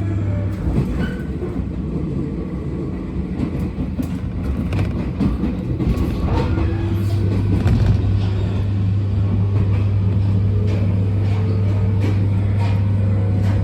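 Abukuma Express 8100 series electric train running, heard from inside the car: a steady low hum with scattered clicks from the wheels on the track, and faint tones climbing slowly in pitch in the second half.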